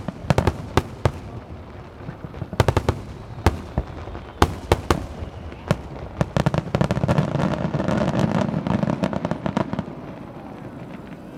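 Aerial fireworks bursting: a string of sharp, echoing bangs, thickening about two-thirds of the way in into a dense, louder stretch of rapid crackling before thinning out again.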